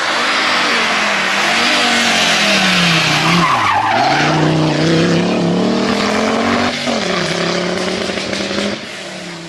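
Historic rally car's engine at full attack: its pitch falls as the car slows into a corner, climbs again as it powers out, and drops suddenly about seven seconds in at an upshift, over a loud hiss of the tyres sliding.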